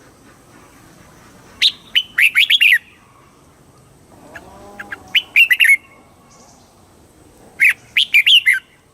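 Red-whiskered bulbul singing: three short, loud phrases of quick chirping notes, spaced a few seconds apart.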